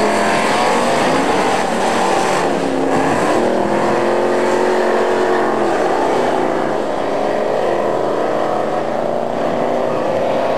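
Two Chevrolet Chevelle V8 drag cars launching and running at full throttle down the strip. The engine note climbs through each gear and drops back at the shifts.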